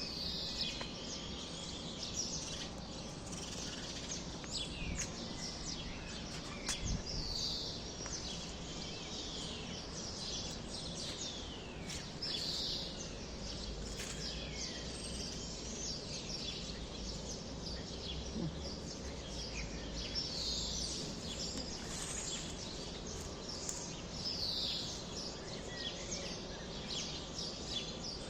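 A chorus of small birds chirping: many short, quick overlapping chirps and down-sweeping notes, over a steady low background rumble.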